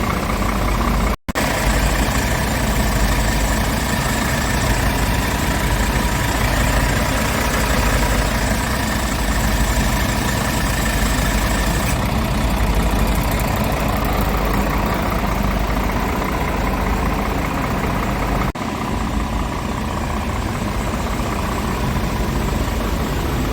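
Scania R450 tractor unit's 13-litre six-cylinder diesel engine idling steadily. There is a momentary break in the sound about a second in, and a cut near the end after which it is slightly quieter and duller.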